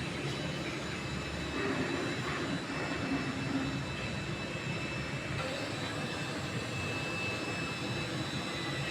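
TIG (GTAW) welding arc burning steadily: a continuous even hiss with faint thin high tones over it.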